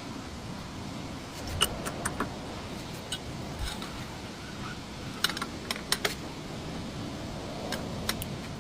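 Hand tools clinking sharply against metal, a few short clicks at a time in three small clusters, over a steady background hiss.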